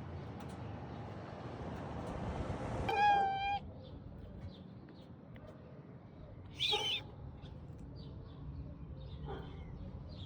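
Cat meowing: a short, even-pitched meow about three seconds in, then a louder, higher, wavering cry a few seconds later, with background noise between them.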